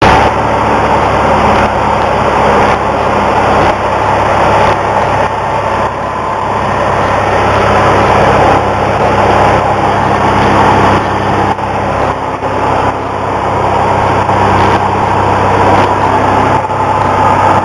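Cessna 172's piston engine and propeller running steadily, heard from inside the cabin as a loud, even drone.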